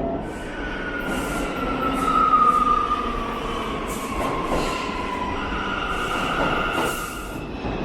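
New York City subway train running with a steady rumble, its wheels squealing against the rails in a long squeal that slides slowly down in pitch, then a second shorter squeal near the end, with several short hisses in between.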